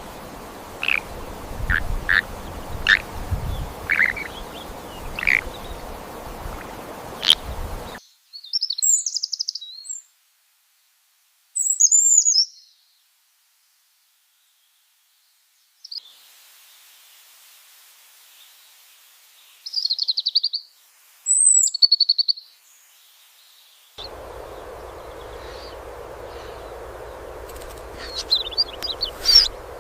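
Bird chirps and short calls, heard in several separately cut stretches. Some are over a steady background hiss and some are between stretches of dead silence, with the clearest high-pitched chirps in brief bursts.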